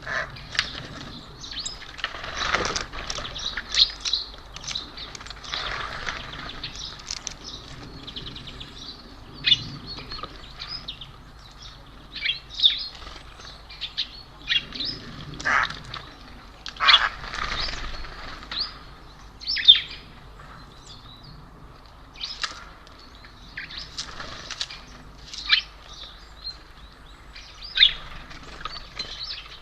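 Small birds visiting a feeder, giving short, sharp chirps at irregular intervals, with occasional bursts of wing flutter as they come and go.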